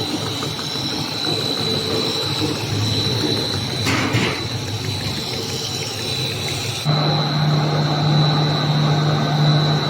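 Snack-food production line machinery running steadily: a mechanical hum with a constant high whine. About seven seconds in, the sound changes abruptly to a louder, steady low hum from another machine on the line.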